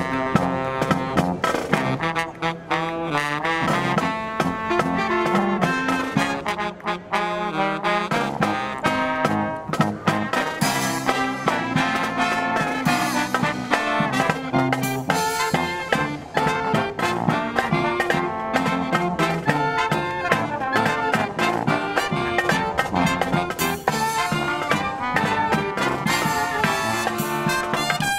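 Brass marching band playing, with trumpets and trombones carrying the tune.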